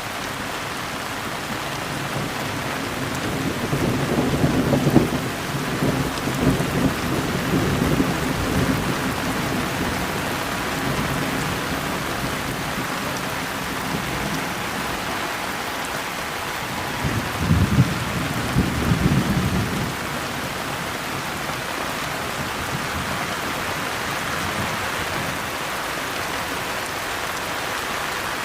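Steady rain falling, a continuous even hiss, with thunder rolling in twice: a long low rumble a few seconds in that fades out over several seconds, and a shorter one a little past the middle.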